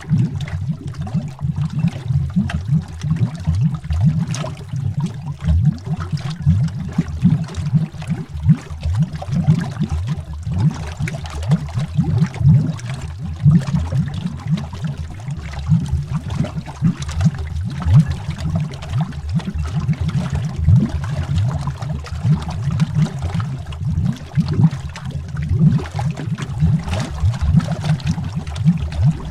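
Continuous stream of bubbles gurgling underwater: many small low-pitched blips, each rising quickly in pitch, following one another without a break.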